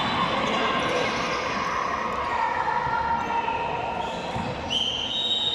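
Game sound from a women's football match: the ball bouncing and being struck over a steady din of the venue, with some long high calls drifting in and out.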